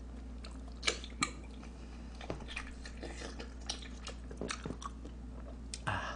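A person chewing and eating chewy rice cakes and a seaweed-coated rice ball, with scattered wet mouth clicks and smacks. Two sharp clicks come about a second in, and a louder cluster comes near the end as he bites into the rice ball.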